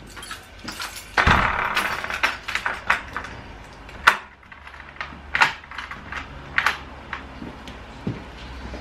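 A run of sharp clicks and knocks from objects being handled, with a denser scraping stretch about a second in and a low steady hum in the second half.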